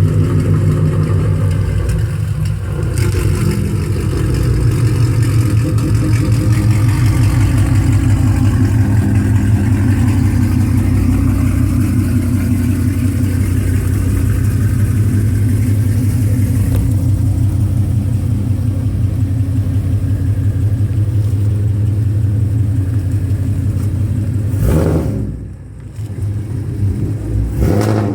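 2013 Ford 5.0 Coyote V8 running, mostly at a steady idle, through Stainless Works longtube headers with no catalytic converters and a straight-piped exhaust, giving a loud, choppy exhaust note. The sound drops briefly twice near the end.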